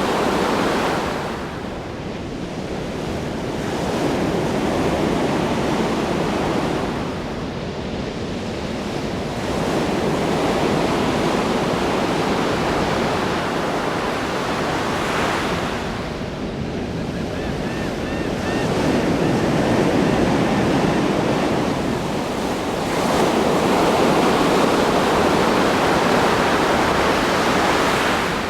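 Ocean waves crashing on a shore: a continuous rush of surf that swells and eases as each wave breaks and draws back, every several seconds.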